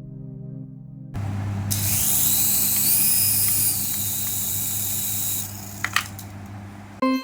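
Small electric motor whirring with a hiss and a faint high whine, starting about a second in and stopping shortly before the end, with two sharp clicks just before it stops. Soft ambient music plays at the start.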